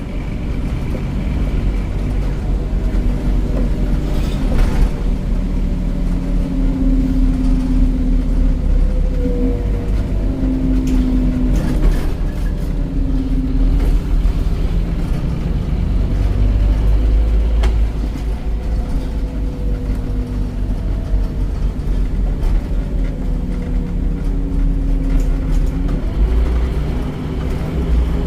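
Scania OmniCity bus's DC9 9.3-litre five-cylinder diesel and ZF automatic gearbox under way, a steady heavy rumble with a whine that rises and fades in stretches as the bus pulls away and slows. A few short clicks and rattles come through.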